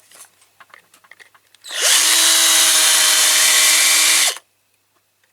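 Electric drill spinning up and running steadily for about two and a half seconds, drilling into a part of a diecast metal model car, then winding down. A few light handling clicks come before it.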